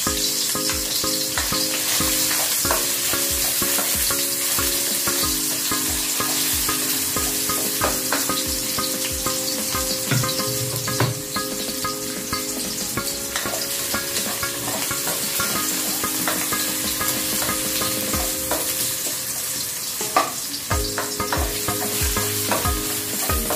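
Minced garlic and ginger sizzling in hot oil in an aluminium wok, with a spatula stirring and scraping against the pan in short clicks.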